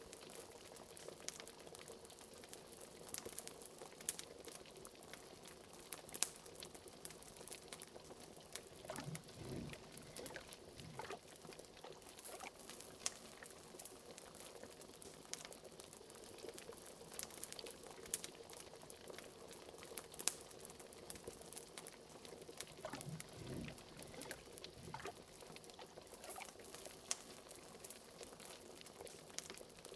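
Wood fire crackling with frequent sharp little pops, over a pot of liquid bubbling gently. A few bigger bubbles glug up about a third of the way in and again near the end.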